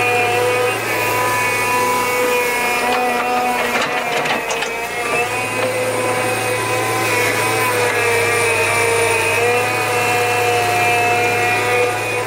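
A small motor or engine-driven tool running steadily with a pitched hum, its pitch dipping and rising slightly at times, with a few knocks about four seconds in.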